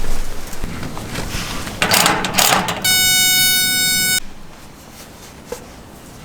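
Gusty, rustling noise, then a single steady horn-like tone about three seconds in that holds one pitch for about a second and a half and cuts off suddenly, leaving a quieter rushing background.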